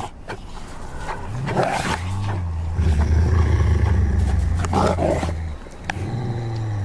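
Wolves growling and snarling in a fight for dominance over the pack: a deep growl swells and holds through the middle, with sharper snarls breaking in about a second and a half in and again near five seconds.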